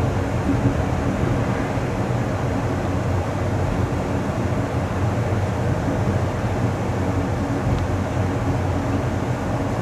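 Amtrak Coast Starlight passenger train rolling along the track, heard from aboard as a steady low rumble of wheels on rail.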